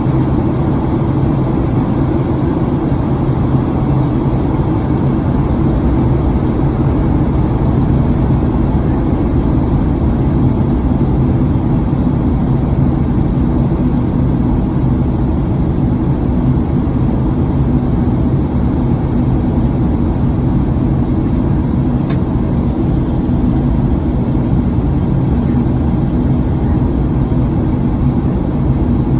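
Steady cabin noise inside a Boeing 737-900ER, its CFM56 engines running steadily: an even rushing drone with a low, constant hum.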